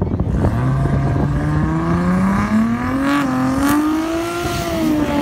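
Drag car's engine revving at the start line, its pitch climbing steadily for about four seconds and then dropping near the end, with a couple of short sharp cracks around the middle.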